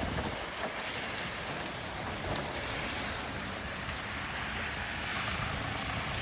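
Steady rain falling in a storm, an even, continuous hiss.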